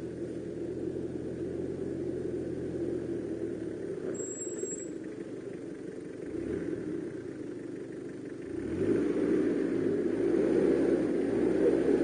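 Off-road 4x4's engine pulling the vehicle up a rutted dirt hill, running steadily at first, then revving and growing louder about three-quarters of the way through as it climbs closer.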